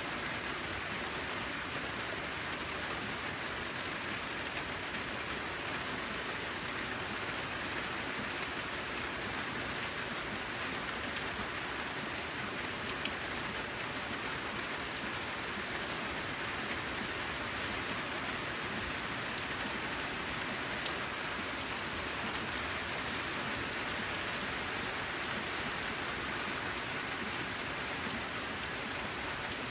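Steady rain falling on a corrugated metal roof: an even hiss of rain with many small drop ticks, one slightly louder drop about halfway through.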